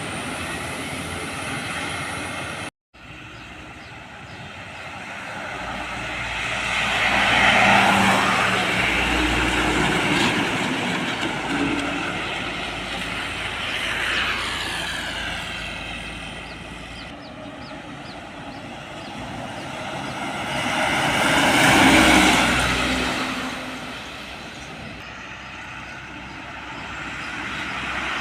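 Heavy road vehicles such as trucks and buses passing close by one after another. The engine and tyre noise swells up and dies away, loudest twice, about a quarter and three quarters of the way through.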